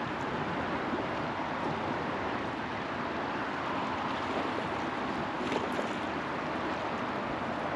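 Truckee River water running and rippling steadily around a floating raft, with a brief sharper splash-like sound about five and a half seconds in.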